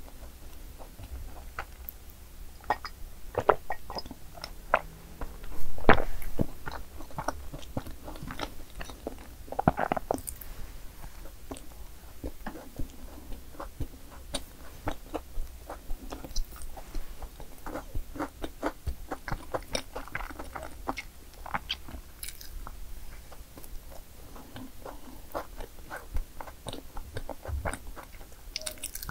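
Close-miked chewing and biting of madeleines, a dense run of small crunchy clicks with louder bites about six and ten seconds in.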